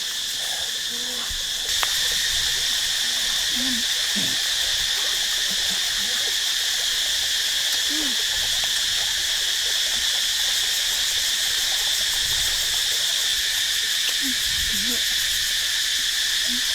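Steady night-time insect chorus of crickets, a constant shrill trill, with short low calls rising and falling here and there.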